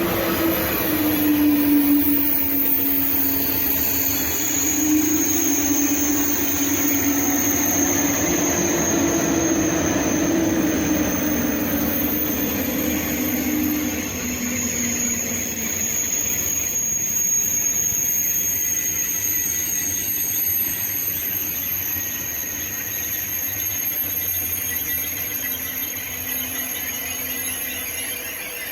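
Train in the station giving off a loud squeal: a steady high whine throughout and a lower tone that wavers and fades out about halfway, over a continuous running noise.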